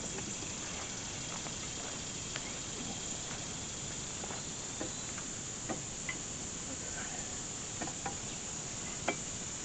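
Steady high-pitched chorus of insects such as crickets, with a few light clicks and knocks scattered through it.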